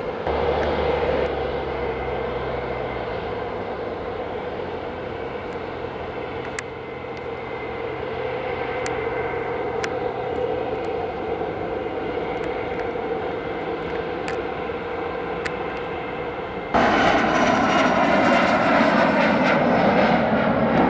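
Jet airliner engines running as the plane passes, a steady drone. About seventeen seconds in the sound jumps abruptly to a louder, closer jet with a falling whine.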